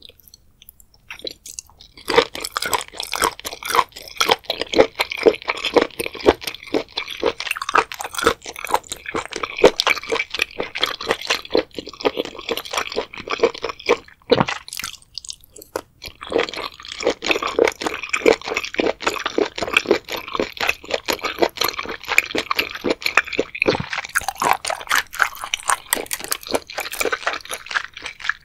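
Close-miked chewing of spicy seafood boil: rapid, irregular wet crunching and squelching mouth sounds, with a short pause about halfway through.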